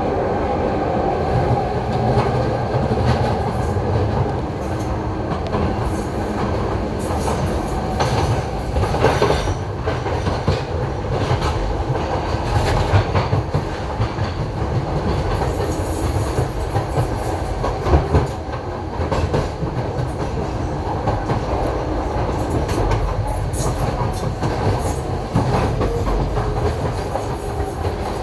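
Docklands Light Railway train running along the line, heard from inside the front car: a steady rumble of wheels on rail with knocks over rail joints or points now and then, and brief high squeals from the wheels.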